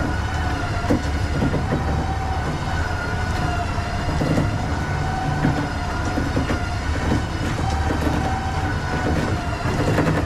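Heavy vehicle machinery running with a low rumble and a steady whine, with scattered knocks and rattles.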